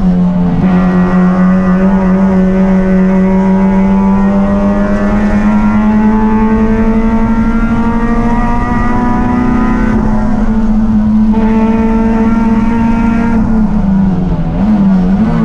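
Race car engine running hard at high, nearly constant revs, its pitch creeping upward; near the end the revs drop and waver, then climb again as the throttle comes back on.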